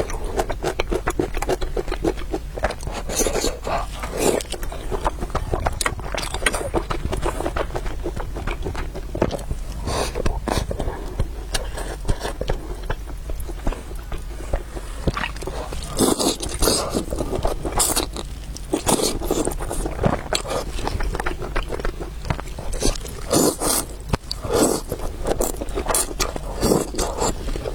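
Close-miked eating sounds: irregular wet chewing clicks of noodles and meatballs, with a few longer slurps spread through, over a low steady hum.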